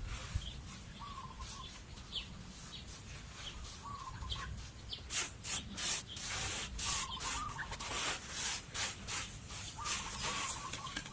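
Chickens clucking in short calls. From about halfway, a rhythmic scraping or rubbing starts, roughly two strokes a second, louder than the clucks.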